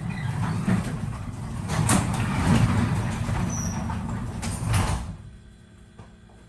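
Garage door rolling along its tracks with a rumble and rattling clicks, stopping abruptly about five seconds in.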